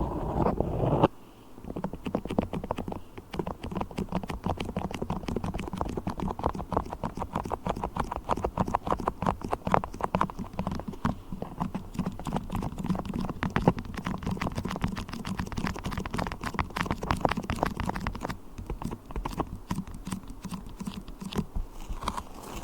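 Beeswax being worked close to the microphone: a rapid, irregular run of sticky clicks and crackles. Before it, a louder rumbling rustle stops suddenly about a second in.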